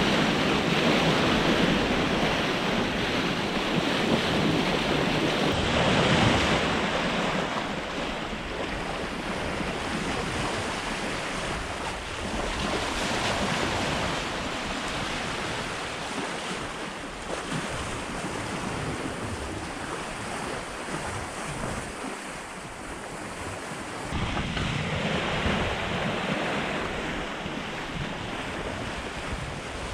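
Sea water rushing past a sailing yacht's hull, with wind buffeting the microphone. The rush swells and eases in irregular surges.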